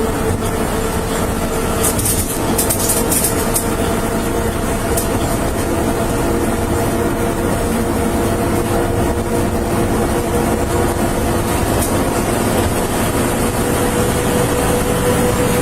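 Steady engine and road noise inside a moving vehicle's cabin, with a constant hum running through it.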